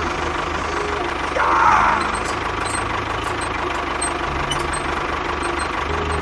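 Tractor-type engine idling with a rapid, even low knocking pulse. A brief warbling tone sounds over it about one and a half seconds in.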